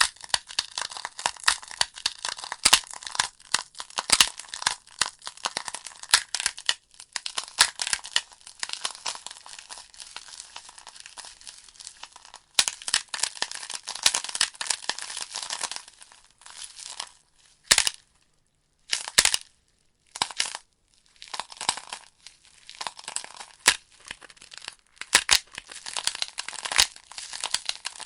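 Burning logs crackling in a fireplace: a dense run of sharp snaps and pops over a light hiss. Past the middle they thin out for a few seconds to single loud pops with near-quiet between them, then build up again.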